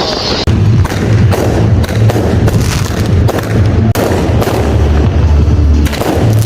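A falling firework whistle ends just as it begins. About half a second in, a dense run of firework bangs and crackles starts and keeps going, over a loud, deep, bass-heavy thumping that sounds like music.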